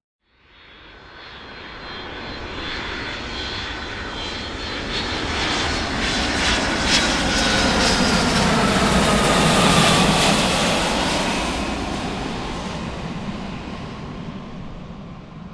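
Fixed-wing aircraft engines passing close by, a flyby. The noise builds up, peaks about ten seconds in and then fades away, with a high whine that falls in pitch as the aircraft goes past.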